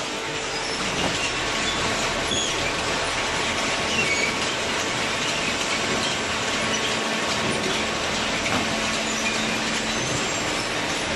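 Open-ended horizontal cardboard baler running: a steady mechanical noise with a faint hum and a few short high squeaks.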